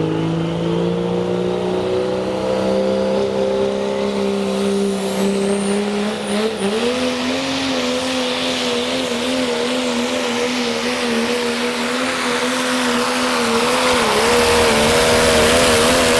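Pro stock diesel 4x4 pickup engine pulling under heavy load. Its pitch climbs slowly, jumps up about six seconds in, then wavers up and down, with a hiss that builds toward the end.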